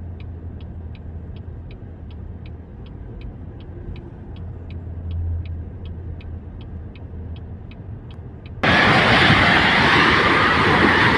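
A low vehicle engine hum with a steady light ticking, about two and a half ticks a second. About eight and a half seconds in, it gives way abruptly to a loud, even rushing noise.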